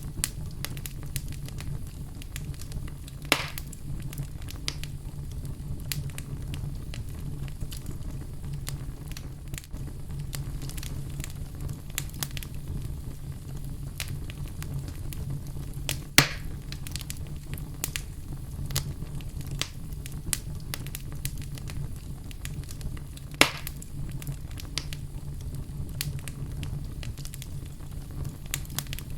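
Wood fire crackling in a fireplace: a steady low rumble of flames with frequent small crackles and three louder pops spread through, the loudest about halfway.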